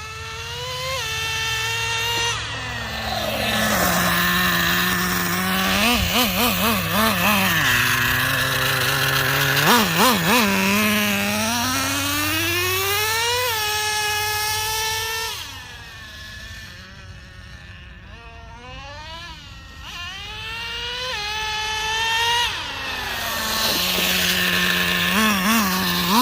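Nitro engine of a Traxxas Revo 3.3 RC truck revving as it is driven. Its pitch climbs and then drops back suddenly several times, and it goes quieter for a few seconds past the middle before rising again.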